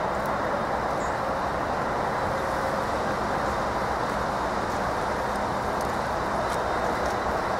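Norfolk Southern freight train rolling past at a steady speed: an even, unbroken rumble of cars on the rails with a few faint clicks.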